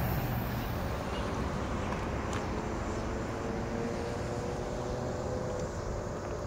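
Rumble of a passing MARC commuter train fading out at the very start, then a faint steady hum of a distant MARC train approaching, with a low steady tone coming in about halfway through.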